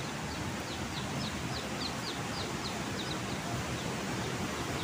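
A small bird calling in a quick series of short, high, descending chirps, about three a second, over a steady outdoor hiss.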